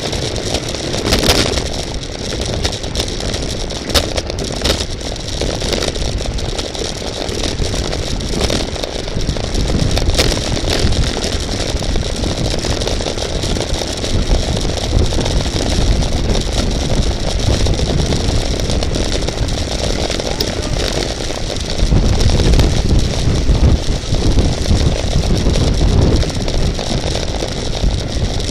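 Wind rushing over the microphone of a camera riding along in a bicycle race, mixed with tyre and road noise and scattered clicks; the low rumble grows louder about three quarters of the way through.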